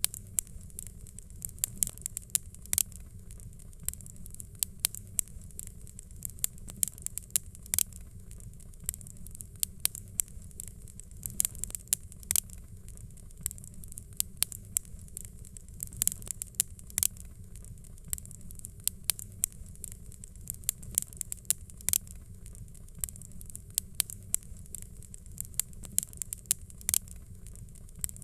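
Wood fire crackling: frequent sharp pops and snaps, several a second and irregular, over a steady low rumble.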